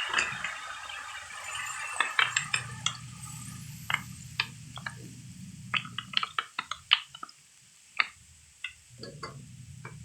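Kitchen utensils clinking and tapping against a pot or dishes: a couple of dozen short, sharp clinks scattered unevenly, over a low steady hum. A hiss of cooking steam fades out in the first second.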